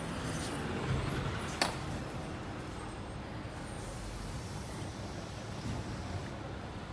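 Small four-stroke Honda engine of a wheeled engine-powered sprayer running steadily, a low rumble, with one sharp click about a second and a half in.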